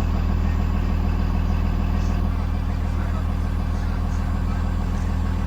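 A 2020 Blue Bird Vision school bus's engine running at a steady low drone, heard from inside the bus.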